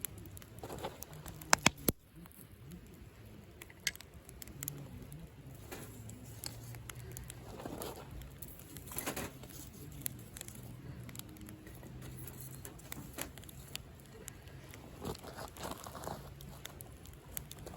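Wood fire crackling, with sharp pops in the first few seconds and a few softer rushing flare-ups later on.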